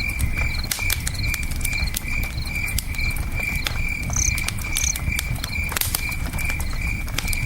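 Campfire crackling with scattered sharp pops over a low steady rumble, while crickets chirp steadily about twice a second. A couple of brief higher chirps come near the middle.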